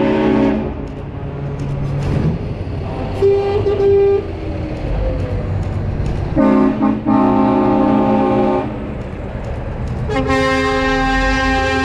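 Truck air horns honking in long blasts over the low rumble of truck engines: one blast ends about half a second in, a shorter higher tone sounds around the middle, another blast comes a little past halfway, and a last one starts near the end and holds.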